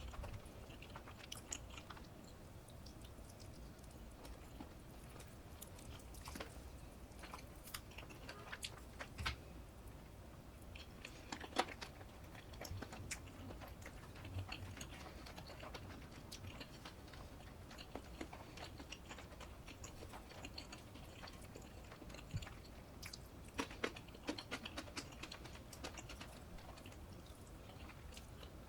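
Close-miked chewing and mouth sounds of someone eating, with scattered small sharp clicks and crunches throughout.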